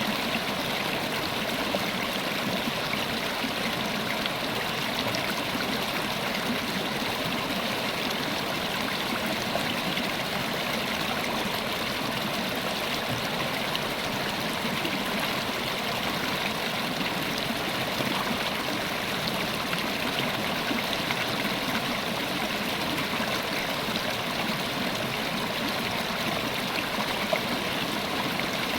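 River water running steadily over stones, an even rushing with small splashes and gurgles.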